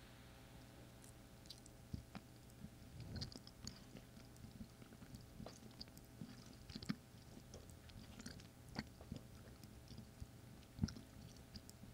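A person chewing a Starburst fruit chew: faint, irregular soft smacks and clicks of the mouth and jaw working the chewy candy, with a couple of sharper smacks, one about seven seconds in and one near the end.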